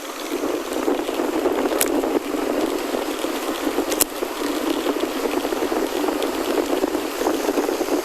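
Steady crackling rush of a gravel bike riding along a gravel forest road, with two sharp clicks about two and four seconds in.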